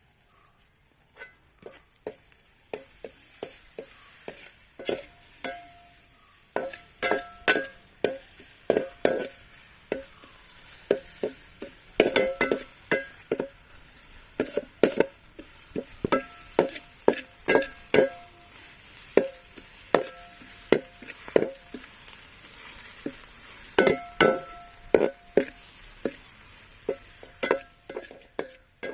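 A spoon stirring onions and ginger-garlic paste frying in a pan: repeated ringing knocks and scrapes against the pan, about two a second, over a steady sizzle.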